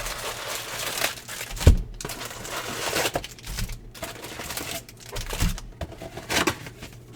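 Foil trading-card pack wrappers crinkling and being torn open, with the cards handled, and a sharp low thump about a second and a half in.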